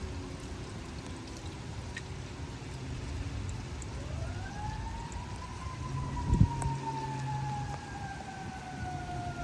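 An emergency vehicle's siren wail rises steeply about four seconds in, then slowly falls, over a steady noise of rain. A short thump sounds about six seconds in.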